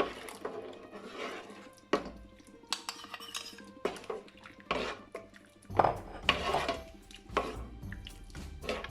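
Utensil clinking and scraping against a cooking pot while stirring soup, with sharp irregular clinks about once a second.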